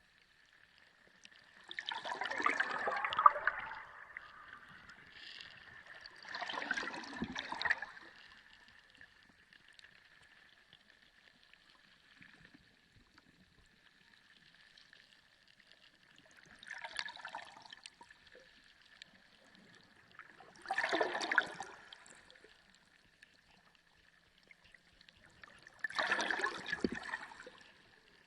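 Water gurgling and sloshing in five separate surges a few seconds apart. A faint steady high tone runs underneath.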